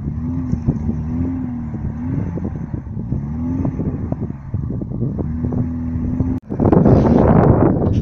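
Small engine of a vehicle being ridden, running with its pitch rising and falling as the throttle changes. About six and a half seconds in the sound cuts out for a moment and comes back as a louder rushing noise.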